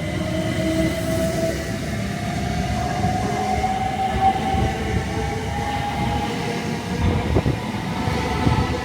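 Electric multiple-unit train running, its rumble overlaid by a motor whine that rises slowly in pitch as the train gathers speed. A single knock comes about seven seconds in.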